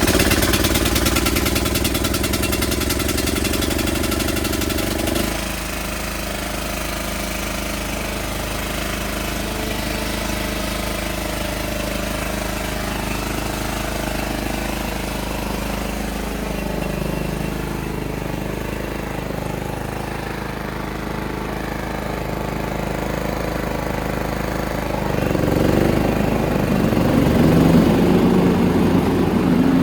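Riding lawn tractor engine running just after starting, with the throttle set to full ('rabbit'). About five seconds in it settles to a slightly quieter steady run, and it gets louder again about 25 seconds in.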